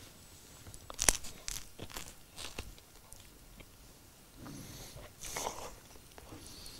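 A person biting and chewing a crusty, cheese-filled baked pastry close to a lapel microphone. Crisp crunches and mouth clicks come in the first few seconds, the loudest about a second in, followed by softer chewing.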